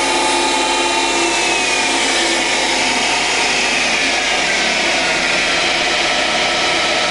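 Harrison VS330 variable-speed centre lathe running at high spindle speed, around 2640 RPM, with a steady mechanical hum and whine from the headstock and drive. The whine falls slowly in pitch from about three seconds in.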